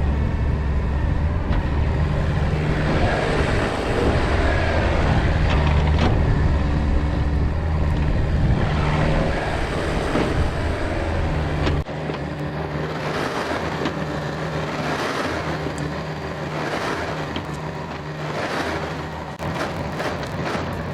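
Yanmar excavator's diesel engine running under working load while it digs, with the bucket scraping soil. About 12 seconds in the sound suddenly drops to a lighter engine note, with a series of short scraping swells.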